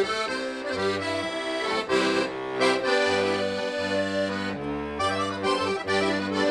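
Accordion playing the song with sustained chords in the right hand over a walking left-hand bass that changes note about every second, on the full master-switch register.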